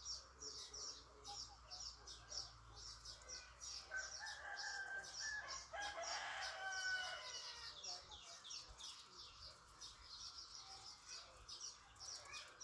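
A rooster crowing once, one long call about four seconds in, over a constant fast, high chirping.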